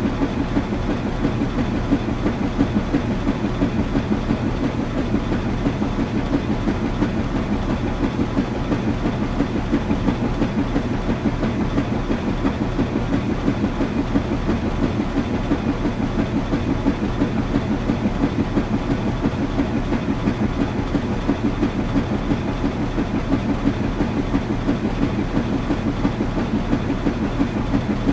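Washing machine running: a steady low rumble with a fast, even pulsing and a constant hum.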